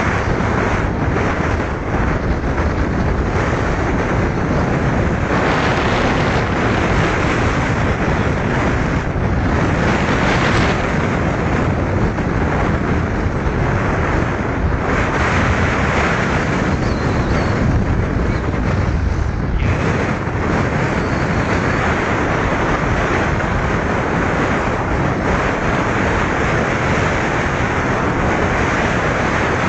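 Loud, steady rush of road and wind noise heard from inside a moving car. It swells several times and eases briefly about two-thirds of the way through.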